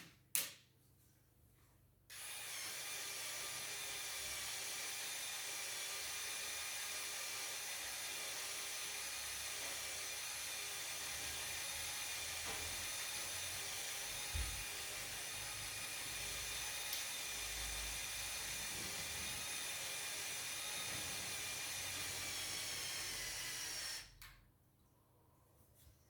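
Small electric motor running a LEGO Technic gear train, a steady high whine. It starts suddenly about two seconds in, its pitch sags slightly near the end, and it stops about two seconds before the end, with a click at each end.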